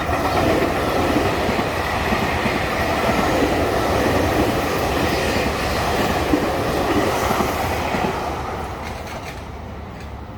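Nankai electric train going by on the rails, with wheels clattering over the track joints; loud for about eight seconds, then fading away.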